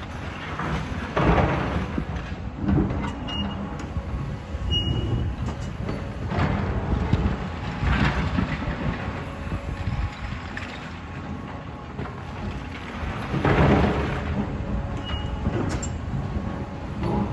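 Heavy demolition machinery running with a steady low diesel drone, broken by three long rumbling crashes of building rubble, the loudest near the end.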